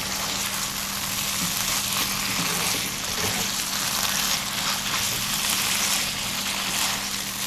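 Vegetables and sauce sizzling steadily in hot oil in a pan as they are stirred, over a steady low hum.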